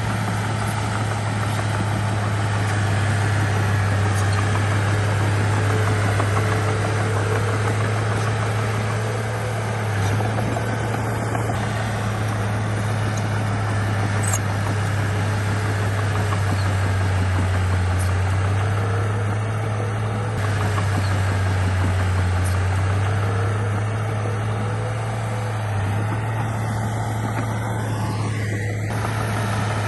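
Bulldozer's heavy diesel engine running steadily under work, a low drone that dips and swells slightly with the load.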